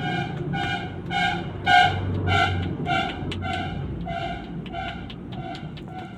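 A bird calling the same short note over and over, a little under two calls a second, over a low background rumble.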